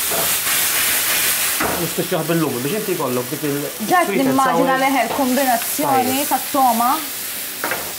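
Food sizzling and frying in pans on a gas range, a steady hiss that is strongest in the first second or so, while the risotto base of rice, onion, celery and leek in olive oil is stirred. A man and a woman talk over it from about two seconds in.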